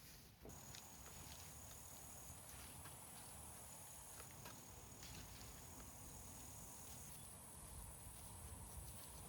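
Faint countryside ambience: insects chirping in thin, steady high-pitched tones that start and stop, with scattered faint ticks and clicks.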